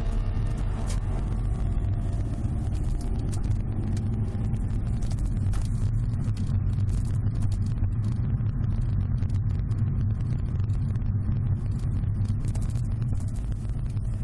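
Steady low road and drivetrain rumble inside the cabin of a Subaru Legacy BH5 wagon on the move, with scattered light clicks throughout, in a cargo area stripped of its hatch and cargo trim.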